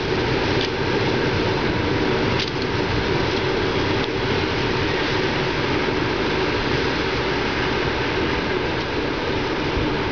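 Long-distance passenger train rolling along the station tracks, a steady rumbling noise with a couple of faint clicks in the first few seconds.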